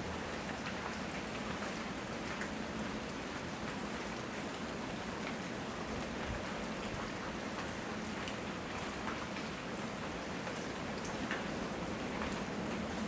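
Steady rainfall, a continuous even patter with a few separate drops ticking on a surface now and then.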